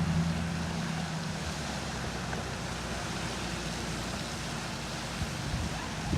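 Pressure washer spraying: a steady hiss of high-pressure water, with a machine hum that fades away about a second and a half in.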